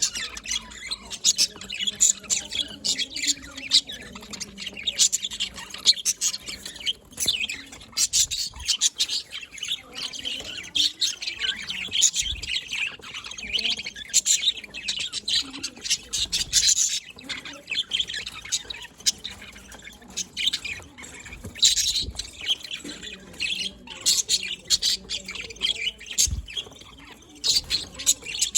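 Pet budgerigars chattering: a continuous stream of quick, high chirps and squawks.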